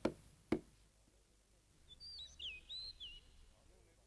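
Two short knocks near the start, then faint bird chirps: a few quick whistled notes gliding up and down, lasting about a second.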